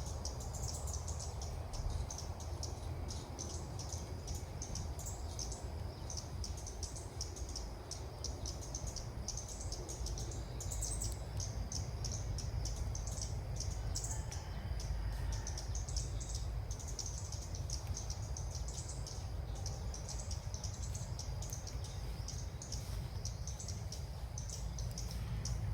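Ốc mít birds chirping, a rapid run of short high-pitched notes that keeps going without pause. A steady low rumble of wind or handling noise sits underneath.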